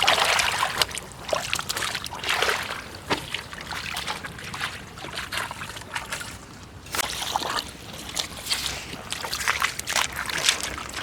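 Water sloshing and splashing in irregular surges, with scattered small knocks and clicks.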